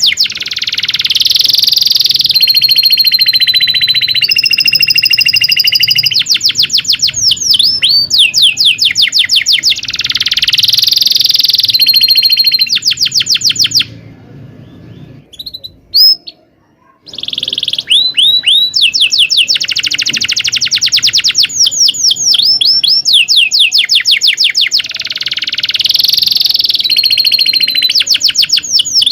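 Domestic canary singing a long, loud song of fast rolling trills and rapid repeated chirps, with a few held whistled notes. The song breaks off for about three seconds around the middle, where there is a single sharp click, then resumes with more trills.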